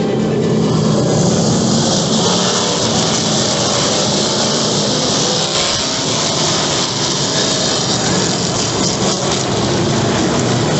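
A field of NASCAR Truck Series V8 race trucks at full throttle at the start of the race, a loud, steady roar that swells over the first couple of seconds.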